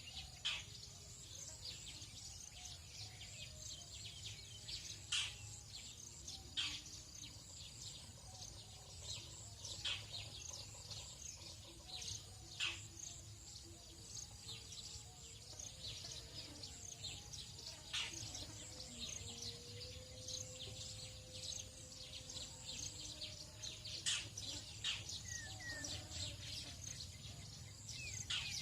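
Tropical dawn chorus: many birds chirping and twittering densely and high-pitched, with a sharper, louder call every few seconds, over a steady low background hum. A brief low, held tone sounds about two-thirds of the way through.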